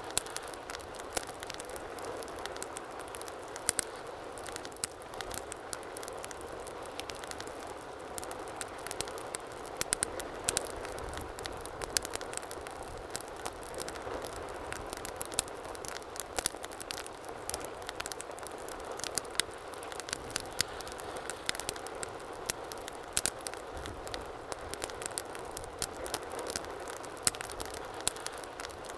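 Wood fire burning steadily, with a soft rushing of flame and frequent irregular sharp crackles and pops of burning wood.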